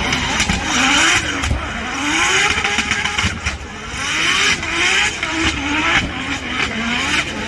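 Drift car's engine revving up and dropping back again and again, about every second or so, with loud bursts of tyre noise as the car is kept sliding.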